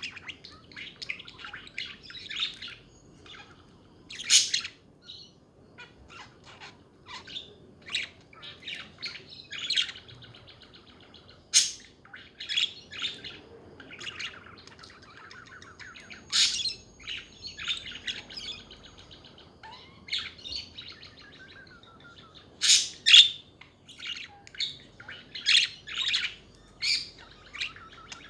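Pet budgerigars chattering: a steady run of short chirps and warbling, broken by a few louder, sharper calls.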